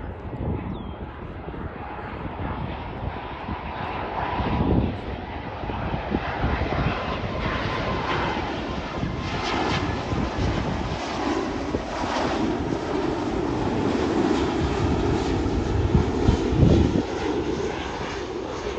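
Jet airliner's engines, the noise building steadily and reaching its loudest a few seconds before the end.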